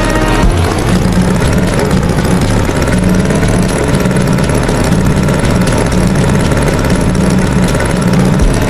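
Tractor engine running steadily, with a pulsing low note.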